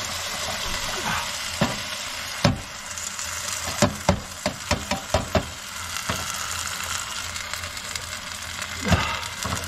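Mushrooms sizzling in hot oil in a pot on a gas hob, with a run of sharp knocks and taps about a third of the way in, and again near the end, as an upturned food tin is shaken and knocked against the pot to empty chicken in white sauce into it.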